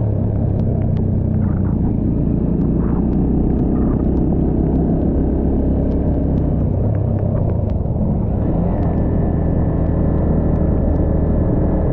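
Motorbike engine running steadily while riding, with scattered sharp ticks. A steady high whine joins about nine seconds in.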